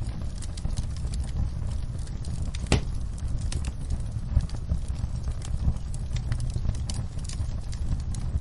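Wood fire crackling: scattered sharp pops and clicks over a low steady rumble, with one louder pop about three seconds in.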